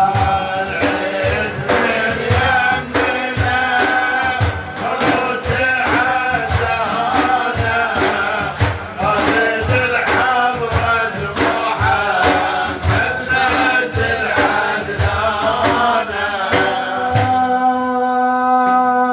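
Devotional Sufi singing with a steady drum beat under voices. Near the end a long held note sets in.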